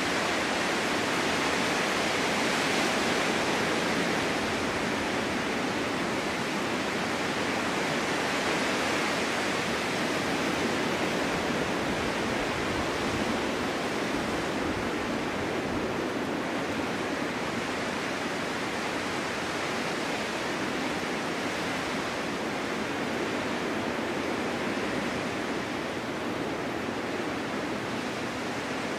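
Steady rushing of a winter storm wind blowing snow. It swells slightly in the first few seconds and eases a little toward the end.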